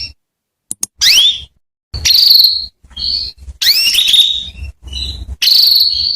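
Female canary calling: a series of short rising chirps and buzzy trills, about six phrases with short gaps between them. This is the female's call used to set a male canary singing.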